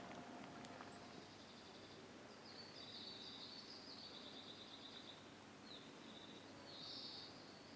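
Faint bird calls: repeated high twittering trills in short phrases, one a little louder near the end.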